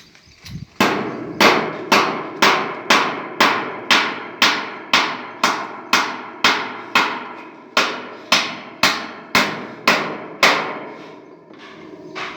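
Hammer blows struck at a steady pace of about two a second, around twenty strikes, each ringing briefly. A few softer knocks come near the end.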